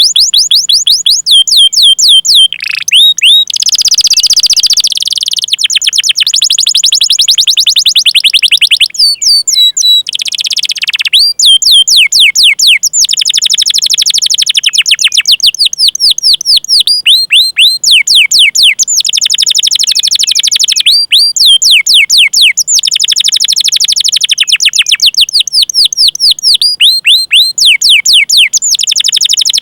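Domestic canary singing a long, loud song of very fast repeated chirp trills ('cuit cuit' rolls). Each trill is a rapid run of quick falling notes, and the song passes from one trill to the next with brief breaks, twice dropping into a single lower swoop.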